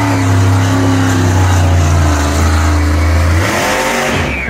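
Monster truck engine running hard at high revs, a loud steady deep drone that drops off about three and a half seconds in as the throttle comes off.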